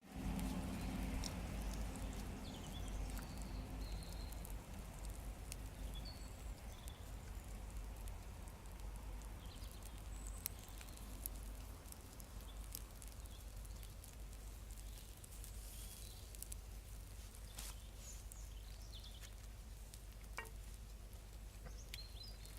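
Bacon sizzling in a pan over a wood fire: a steady frying hiss with scattered small pops and crackles, a little louder in the first few seconds.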